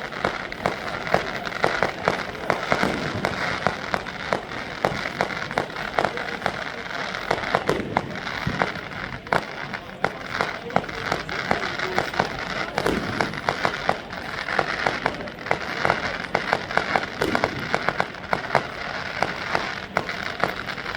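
Fireworks going off again and again: a dense, irregular run of sharp cracks and bangs over the chatter of a crowd.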